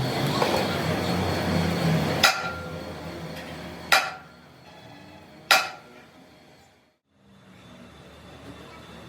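Three hammer blows on metal, about a second and a half apart, each ringing briefly, after a couple of seconds of loud workshop noise with a low hum.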